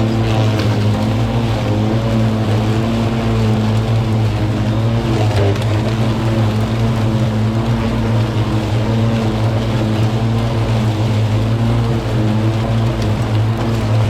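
Parkside PPRMA 40-Li A1 40 V cordless lawn mower running with a steady, even motor-and-blade hum.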